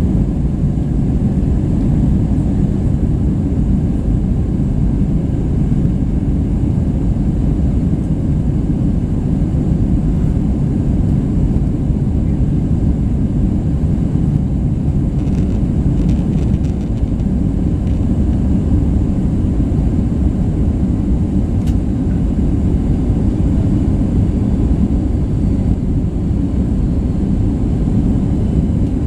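Steady low rumble of engine and airflow noise inside an Airbus A320's passenger cabin in flight, heaviest in the bass and unchanging throughout. A few faint ticks come about halfway through.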